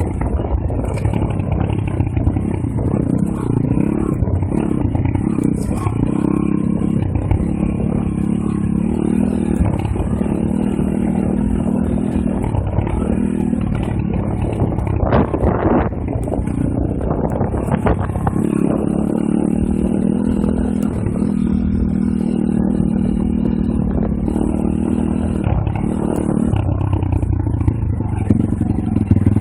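Pit bike engine running while riding off-road, its pitch rising and falling as the throttle is opened and closed.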